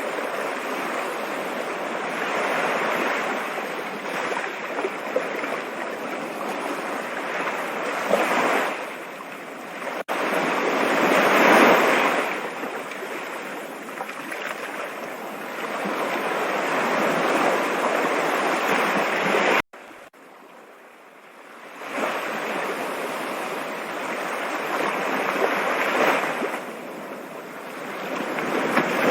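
Stream water rushing steadily, swelling and easing every few seconds. A little past the middle it drops off abruptly to a much quieter flow for about two seconds, then builds back up.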